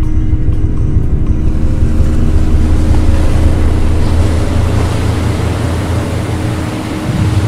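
Ocean water washing and splashing, swelling in from about two seconds in, over a deep, steady rumble with a held low tone.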